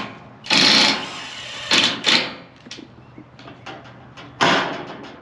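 Scrap sheet-metal panels being slid and laid over one another, overlapping the pieces. There are several loud scraping, rattling bursts, each about half a second long, with a few small clicks between them.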